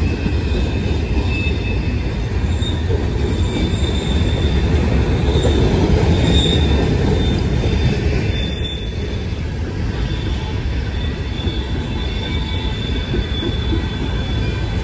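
Cars of a long freight train rolling past on the rails: a steady heavy rumble of wheels on track, with thin high wheel squeals that come and go, loudest about six seconds in.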